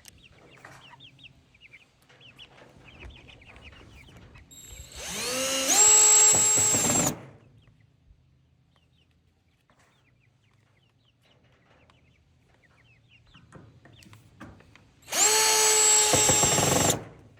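Cordless drill driving screws back into a hinge, twice: each run of about two seconds spins up to a steady pitch and stops, one about five seconds in and one near the end. Chickens cluck faintly in between.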